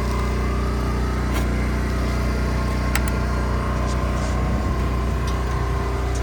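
A motor running steadily with a low hum, with a few sharp clicks scattered through.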